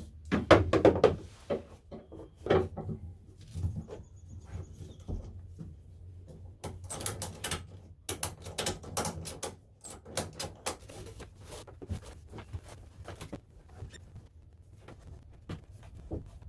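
Irregular knocks, taps and clicks of wooden boards and fittings being handled in a truck bed. The loudest knocks come about half a second to a second in, with a dense run of clicks in the middle.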